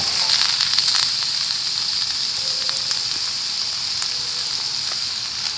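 Food frying in hot oil in a pan: a steady sizzle with scattered small pops and crackles.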